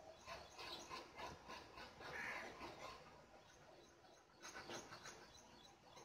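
Faint, rapid high chirps of small birds: two runs of short notes about five a second, with one brief louder note about two seconds in.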